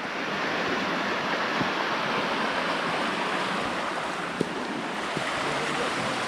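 Steady rush of river water running over rocks, with one short knock about four and a half seconds in.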